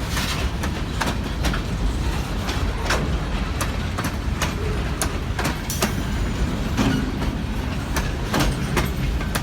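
Kiamichi Railroad freight train rolling past: a steady low rumble of the cars, with the wheels clacking over rail joints about twice a second.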